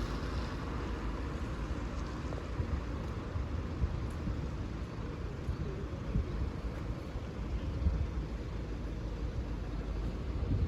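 Wind buffeting the microphone outdoors: a steady, uneven low rumble with no distinct events.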